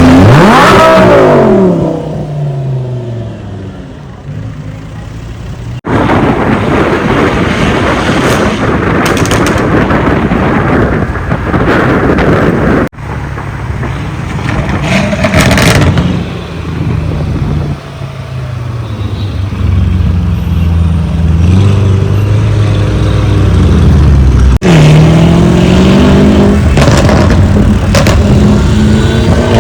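Lamborghini Urus's twin-turbo V8 through a Novitec aftermarket exhaust, loud, revving and accelerating. The engine note falls steeply just after the start and climbs again near the end. The sound breaks off abruptly and restarts three times.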